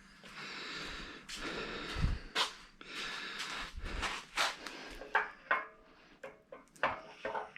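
Scattered knocks and clicks of the router table's frame parts being handled and fitted, a side bracket going onto the rails, with close breathing between the knocks.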